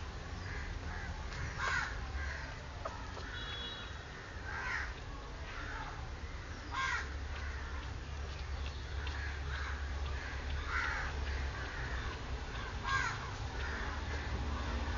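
Two-day-old Pomeranian-cross puppies crying: short, high squeals that fall in pitch, a few seconds apart, some louder and some fainter, over a steady low hum.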